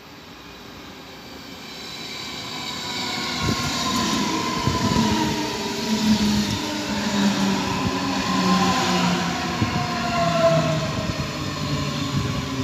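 Red-and-white Stuttgart S-Bahn electric multiple unit approaching and running past close by. The wheel and rail noise swells over the first few seconds and stays loud, with whining tones that fall in pitch as the train goes by.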